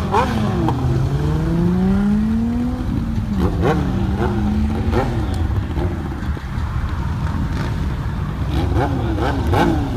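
Car engine accelerating hard, its pitch climbing for about two seconds, dropping at a gear change and climbing again, with more short revs near the end and a crowd talking underneath.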